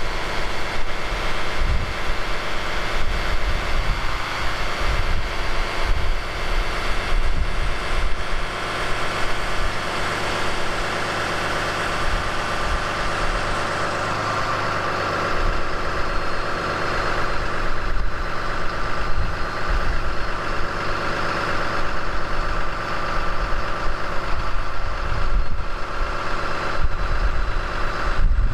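The 6.7-litre Cummins turbo-diesel inline-six of a 2018 Ram 5500 idling steadily while still cold. It was started at about 0°F with only the preheat cycle and no block heater.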